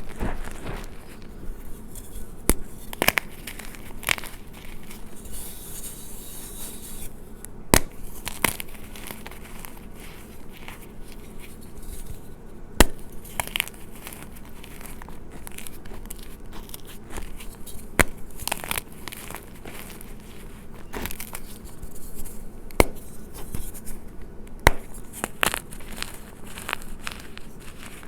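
Gym chalk being crushed and crumbled by hand, with a continuous crisp crackling and a sharp snap every few seconds as pieces break.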